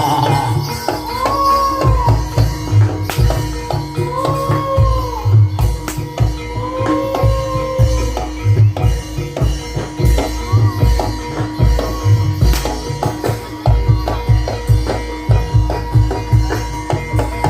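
Live Banyumasan ebeg gamelan music: a driving kendang drum rhythm over steady ringing metallophone and gong tones, with three short rising-and-falling melodic phrases in the first half.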